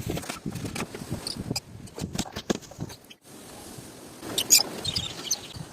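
Birds feeding: irregular small taps and scuffling with a few short high chirps, broken by a brief gap about three seconds in and a sharper rustle near the end.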